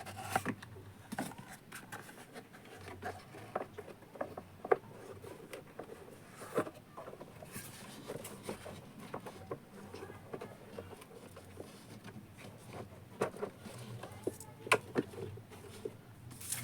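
Scattered light clicks and taps of hands handling a Bluetooth speaker and its wiring, over a faint low hum.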